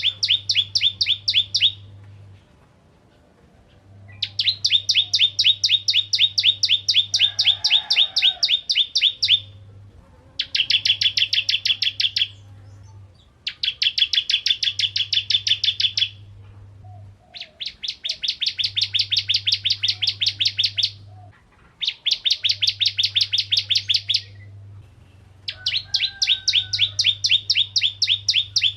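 Ciblek kristal (bar-winged prinia) singing its gacor song: seven bouts of fast, evenly repeated sharp notes, about ten a second, each bout lasting a few seconds with short pauses between.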